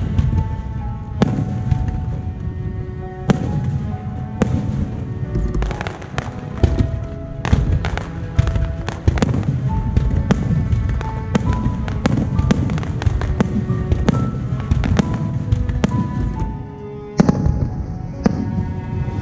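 Fireworks going off in a rapid, continuous barrage of sharp bangs over a low rumble, with music playing over them. The barrage thins briefly near the end, then a single loud bang.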